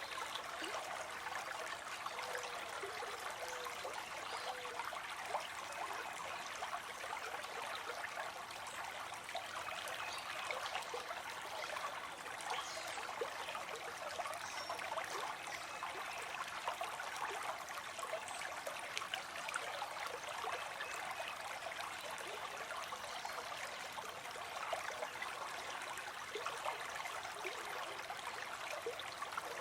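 A small stream trickling and burbling over stones, a steady babble of running water with many small splashes and no break.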